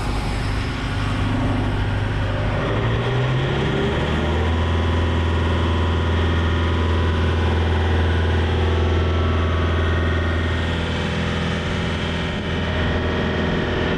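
Heavy diesel engine that revs up about three seconds in, runs steadily at the higher speed, and eases back near the end, as when a machine's boom is brought down.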